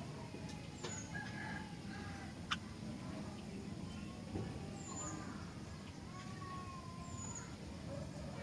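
Sooty-headed bulbul (kutilang) calling in short whistled phrases over a steady low background noise, with a few thin high chirps from other birds and one sharp click about two and a half seconds in.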